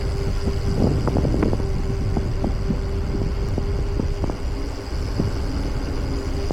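Wind buffeting the microphone on a moving bicycle, a constant low rumble, with a steady hum that breaks up near the end and scattered small clicks and rattles.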